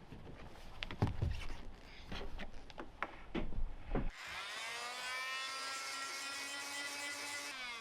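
A series of irregular knocks and scrapes from hand work on wood. About four seconds in, a small electric power tool spins up and runs steadily with a high whine, then begins to wind down near the end.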